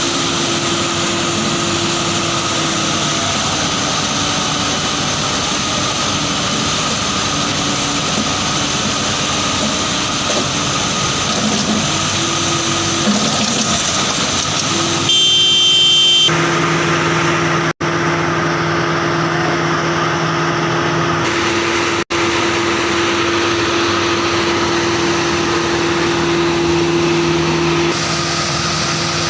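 Diesel engines of construction machinery running steadily with a constant hum, the sound changing abruptly at several edit cuts, with two brief dropouts about 18 and 22 seconds in.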